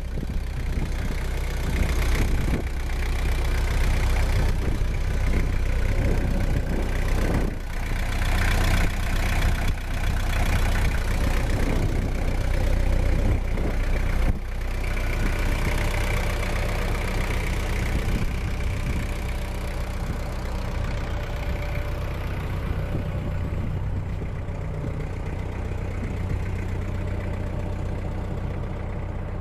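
Kubota M8200 tractor's diesel engine running, louder and busier for the first half, then dropping suddenly about halfway through to a steady idle.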